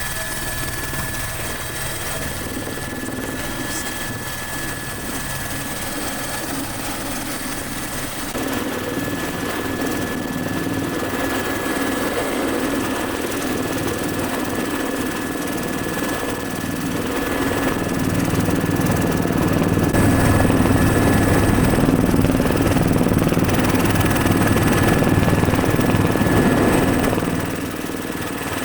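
Helicopter turbine and rotor running, a steady high turbine whine over a low rotor drone. It gets louder about eight seconds in and again around eighteen seconds, then eases off near the end.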